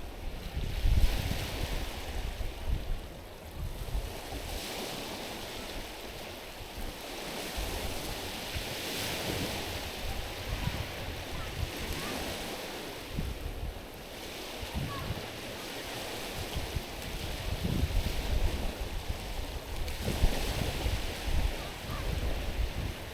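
Small sea waves washing over a stony shore, each swell of hiss building and falling back every few seconds. Wind buffets the microphone with low rumbles, most strongly near the start and again near the end.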